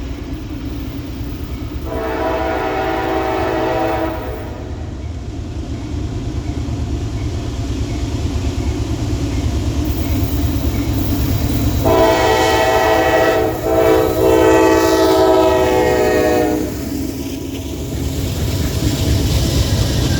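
Diesel locomotive horn of Norfolk Southern 4503 sounding two blasts over the steady rumble of the passing freight train. There is a short blast about two seconds in and a longer one about twelve seconds in, broken briefly partway through.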